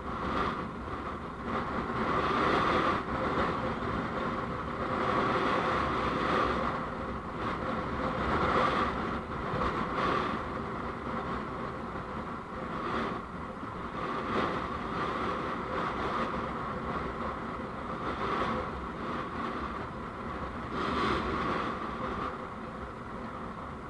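Road and traffic noise recorded from a moving vehicle, a steady rushing that swells and fades every few seconds.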